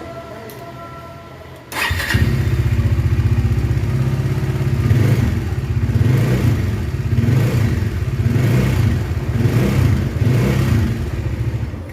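Bajaj Dominar 400 BS4's single-cylinder DOHC engine started about two seconds in, then running with its note swelling about once a second. It carries a faint bad noise that the mechanic suspects comes from a slack timing chain, the chain tension being too low.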